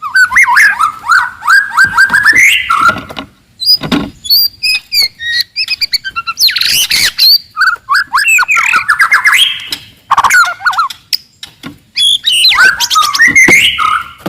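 Wild white-rumped shama (murai batu) singing a loud, aggressive song in varied phrases: rapid runs of repeated notes, high whistles and chattering, with short breaks between phrases and a longer pause about eleven seconds in.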